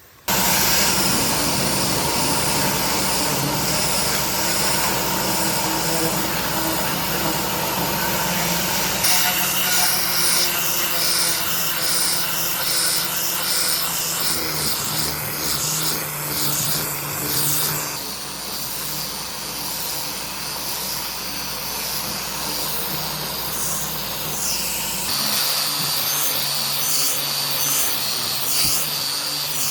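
Power tools running steadily on wood, a continuous motor whine with grinding noise that shifts abruptly in tone several times.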